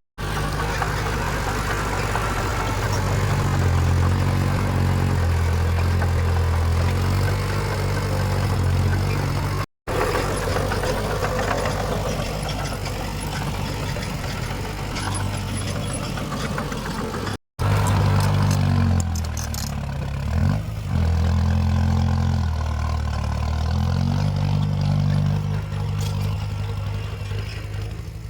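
Heavy diesel engines of earthmoving machines running, revving up and easing off again and again, with two brief drop-outs about ten and seventeen seconds in.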